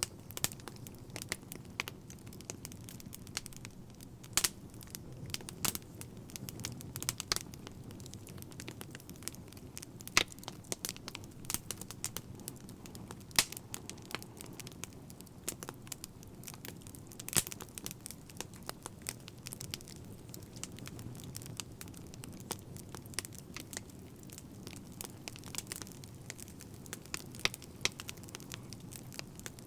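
Fire crackling: irregular sharp pops and snaps, several a second, over a low steady rumble of the flames.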